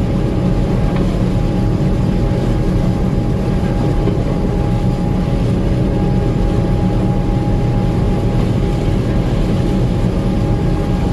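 Gleaner M2 combine running steadily while picking corn, heard from the cab: a constant low engine and machinery drone with a thin steady whine over it.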